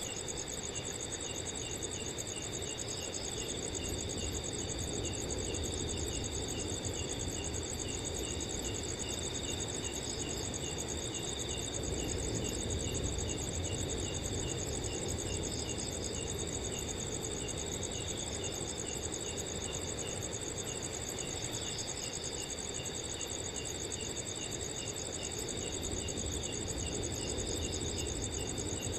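Several crickets chirping steadily at different pitches: one high continuous trill, others in regular pulsed chirps a few times a second. Underneath, a low steady rush of wind.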